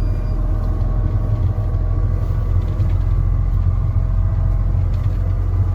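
Steady low rumble of a motor vehicle running, starting abruptly.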